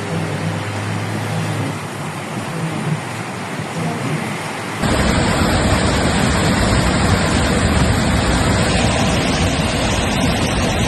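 Floodwater and heavy rain rushing, with a vehicle engine humming steadily in the first couple of seconds. About five seconds in, the sound cuts abruptly to a louder, denser rush of water.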